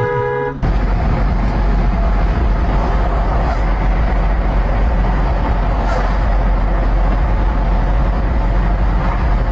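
A car horn sounding, cut off about half a second in, then loud, steady vehicle road and wind rumble from a moving vehicle.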